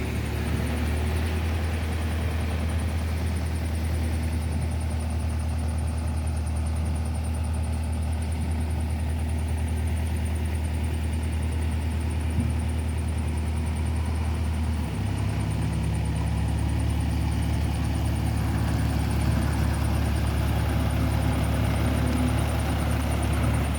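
Diesel engine of heavy machinery running steadily, with its note stepping up about 15 seconds in as the engine speeds up.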